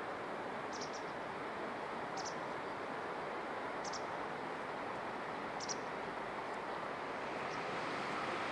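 Steady outdoor rushing ambience, with a small bird giving short, high chirps every second or two.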